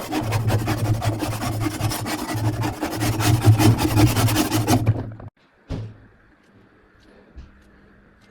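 A scraper rasping over the plastic outer bowl of a washing machine in quick repeated strokes, lifting off a ring of built-up dirt. It stops abruptly about five seconds in, followed by a single click and then quiet.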